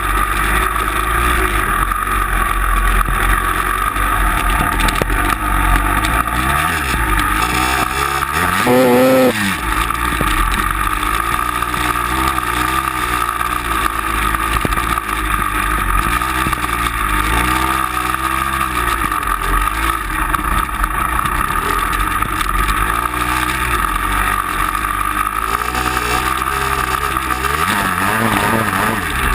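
Vehicle engine running under load, its revs rising and falling repeatedly, with a quick sharp rev about nine seconds in and another near the end.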